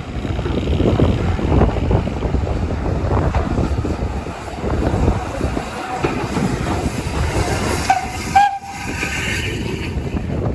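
A train running on the line with heavy wind noise on the microphone, and a short pitched whistle toot about eight seconds in.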